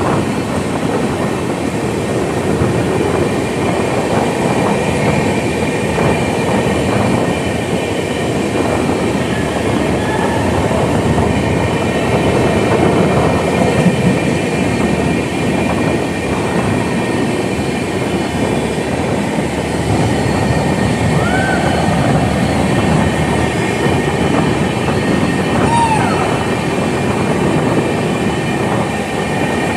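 Passenger train running through a concrete-lined tunnel, the steady noise of wheels and coaches loud and echoing off the tunnel wall close beside the coach. Short wheel squeals sound twice in the last third.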